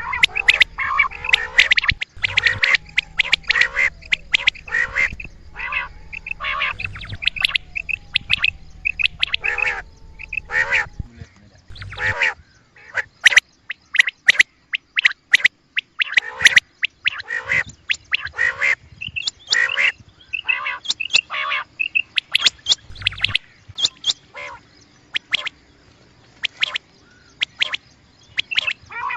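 Quail calling over and over in quick, short, repeated notes, sometimes overlapping as if several birds.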